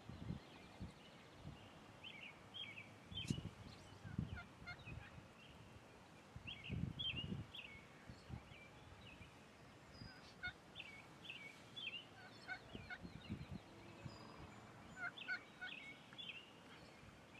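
Wild turkeys calling faintly in repeated clusters of short, high notes, with soft low rustles and thumps close by.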